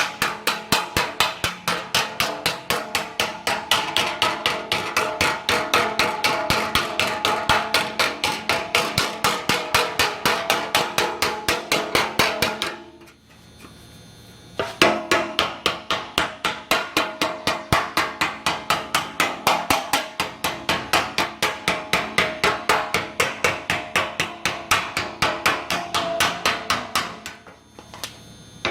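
Hammer striking a sheet-metal aircraft cowling panel in a fast, even rhythm of about four blows a second, the metal ringing with each blow. This is hand-forming the panel to shape. The hammering stops for a couple of seconds about midway and again near the end.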